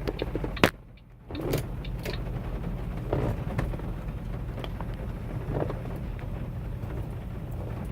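Steady low drone of a semi-truck's engine and road noise heard inside the cab while driving, with a few scattered light clicks and a brief drop in level about a second in.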